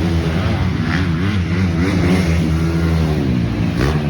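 Motocross bike engines revving, their pitch rising and falling as the throttle opens and closes.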